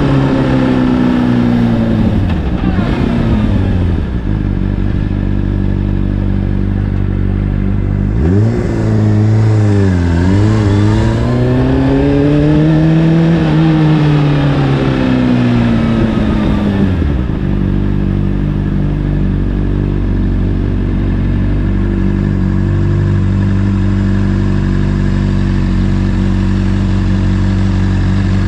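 Honda CBR600RR's inline-four through an Akrapovic exhaust: the engine note falls as the bike slows, then about eight seconds in it revs up, dips once, climbs again and falls away. From about seventeen seconds on it idles steadily.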